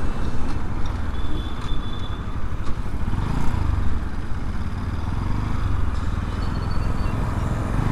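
Heavy wind rumble on the microphone of a rider on a moving motorbike, mixed with the bike's engine and road noise, in strong cyclone winds.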